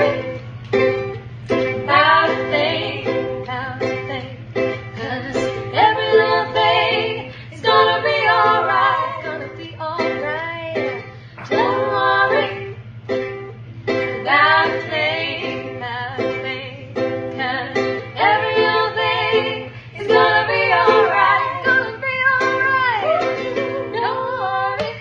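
Women singing a slow song to plucked-string accompaniment, in phrases a second or two long, with a steady low hum underneath.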